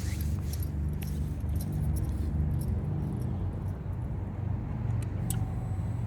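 Harley-Davidson Milwaukee-Eight 117 V-twin idling through an aftermarket Over Racing exhaust, a steady, uneven low rumble. A couple of light sharp clicks about five seconds in.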